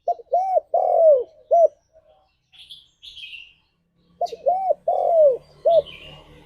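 Spotted dove cooing: two phrases of four rounded coos each, about four seconds apart. A smaller bird chirps in the gap between them and again near the end.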